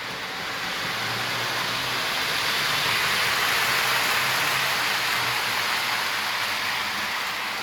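Lionel O-gauge Burlington F3 diesel locomotive set pulling five passenger cars along three-rail track: a steady rushing of rolling wheels and motors with a faint low hum. It swells louder a few seconds in as the train passes close, then eases slightly.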